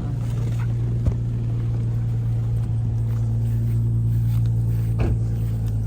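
Car engine idling steadily and smoothly, a constant low hum, with two light clicks, one about a second in and one near the end.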